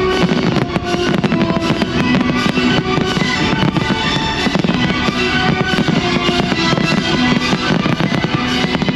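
Fireworks bursting and crackling, many sharp bangs in quick succession, over loud music from the display's soundtrack.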